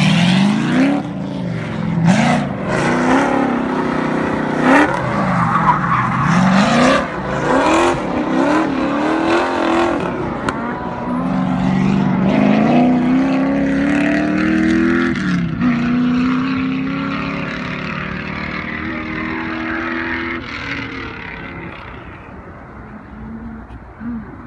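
Sports car engine revving hard, its pitch climbing and dropping again and again as it accelerates, shifts and lifts off, then fading as the car drives away into the distance.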